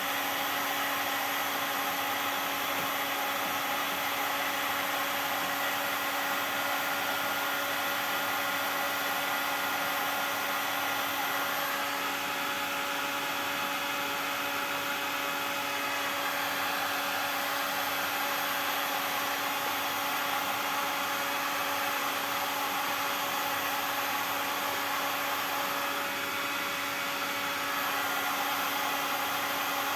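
Heat gun blowing hot air steadily to soften plastic, an even whirring hiss with a steady hum underneath.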